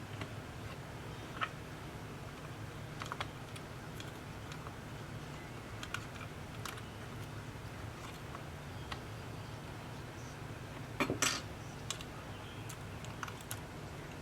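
Scattered light clicks and taps of small repair tools and tablet parts being handled, with a short burst of louder clatter about eleven seconds in, over a steady low hum.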